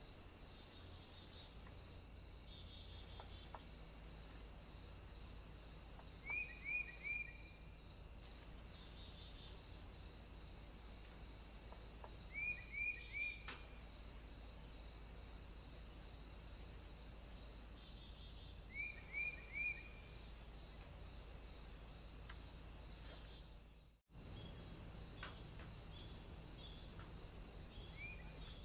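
A small bird calling in quick groups of three short, falling notes, repeated about every six seconds, over a steady high-pitched hiss with a faint regular pulse. The sound drops out for an instant near the end.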